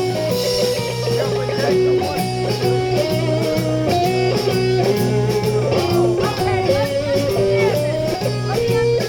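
Live blues band playing an instrumental passage, with electric guitar playing bending lead lines over bass and drums.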